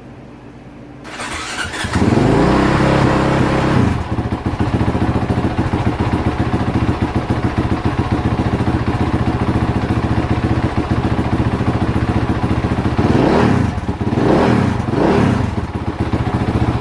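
2018 Honda CRF450R's 450 cc single-cylinder four-stroke engine, just rebuilt, turning over on the electric starter with the choke on and catching about two seconds in. It runs at a high choked fast idle, settles to a steady idle about four seconds in, and its revs rise and fall three times near the end.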